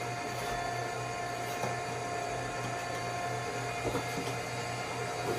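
Box erector machine for small parcel cartons running steadily, a low hum under a constant whine, with a few light clicks of its mechanism.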